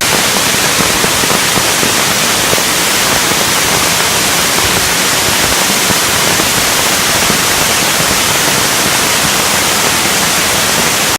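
A rushing mountain river: a loud, steady rush of water that cuts off suddenly at the end.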